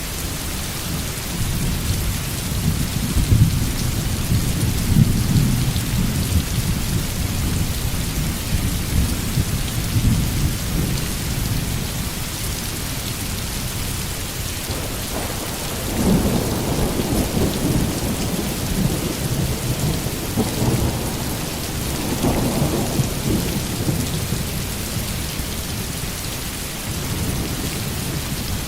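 Steady heavy rain hissing on a surface, with thunder rumbling under it. One long rumble swells and fades over the first ten seconds. A second, stronger roll starts about fifteen seconds in and keeps rumbling for several seconds.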